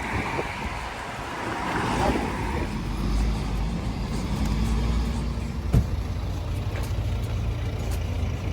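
Steady low engine rumble with a wash of noise over it, and one short sharp click about six seconds in.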